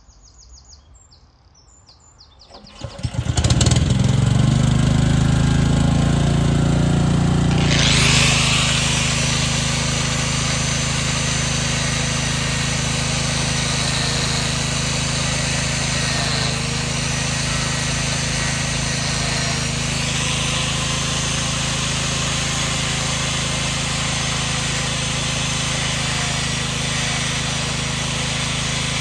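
An engine starts about three seconds in, after a brief crank, and then runs steadily; its sound shifts once around eight seconds in.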